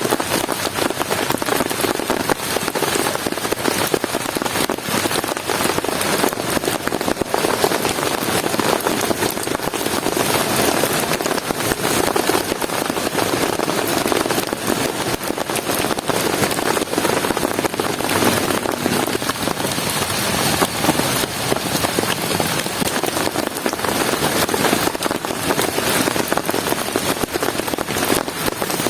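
Heavy rain falling steadily, a dense, even rush of drops striking a surface.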